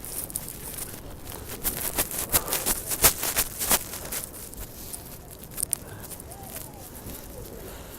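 Outdoor street ambience in a snowstorm, a steady background wash, with a run of sharp irregular crackling clicks about two to four seconds in and faint distant voices near the end.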